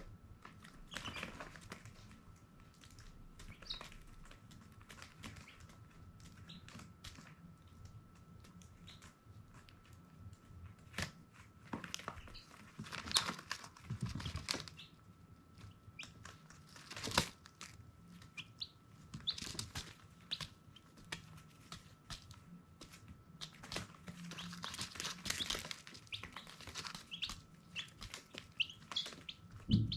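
Baby chicks peeping in short, scattered high chirps, with frequent rustling and scratching in their bedding and a faint steady high tone underneath.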